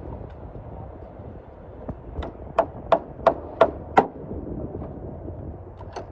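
A run of six quick, sharp knocks with a short ring, about three a second, then one more knock near the end.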